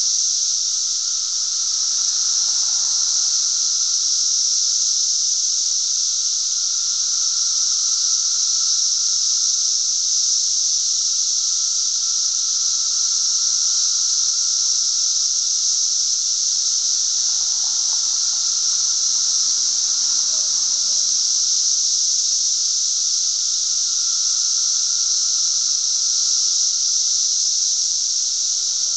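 Chorus of periodical cicadas (Brood XIII) singing loudly and without a break: a dense, steady high-pitched hiss with a lower steady whine beneath it.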